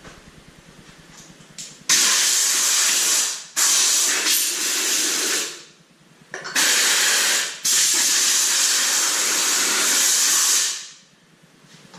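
Compressed-air blow gun hissing in four long blasts, each one to three seconds, blowing dust and dirt out of a tractor's air filter element.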